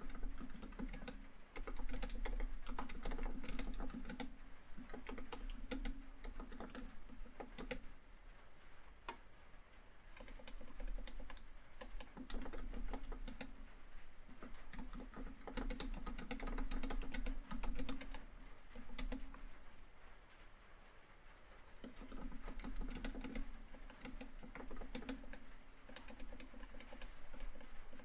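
Rapid typing on a laptop keyboard, in runs of quick key clicks broken by short pauses.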